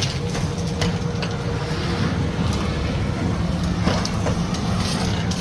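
Glutton litter vacuum running steadily with a low hum, sucking up park litter and leaves, with scattered short clicks and rattles as debris goes up the hose.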